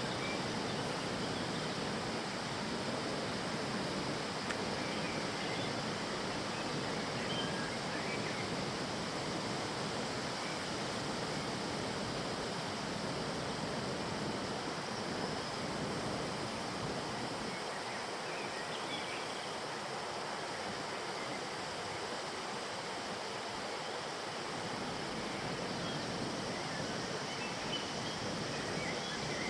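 Sillaro river water flowing in a steady, even rush, with a few faint high chirps here and there.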